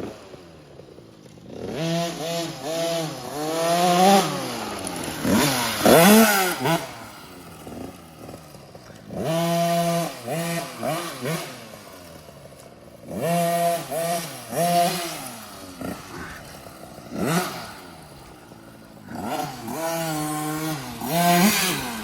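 Husqvarna TC50's 50cc two-stroke engine revving up to a high buzz and easing off again and again as it goes around the track, about six bursts of throttle with lower revs in between. It is running on a 90 main jet, which the owner says has it running well.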